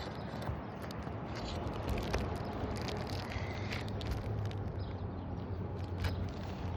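Scattered clicks and scrapes of hand work on a brittle, crispy asphalt shingle roof, over a low steady rumble.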